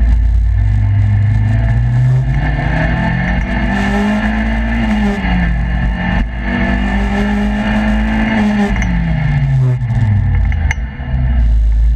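Turbocharged Toyota MR2 Roadster's 1ZZ-FE 1.8-litre four-cylinder pulling hard on a boost test run: revs climb for about four seconds, drop at a gear change about halfway through, climb again, then fall away as the throttle is lifted, with road and wind noise throughout.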